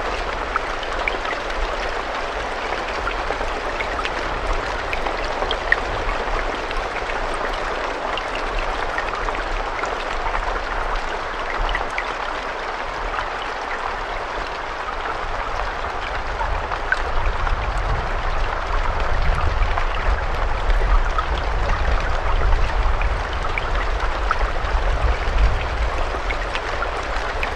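Steady rain, a dense hiss sprinkled with small drop ticks, over a low rumble that grows somewhat louder in the second half.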